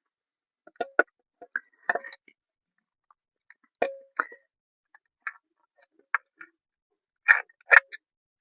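Irregular light metal clicks and clinks as motorcycle gear selector forks are handled and fitted into an open crankcase, some ringing briefly. The two loudest knocks come close together near the end.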